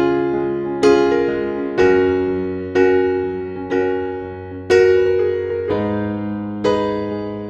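Background music: electric piano chords struck about once a second, each ringing and fading before the next.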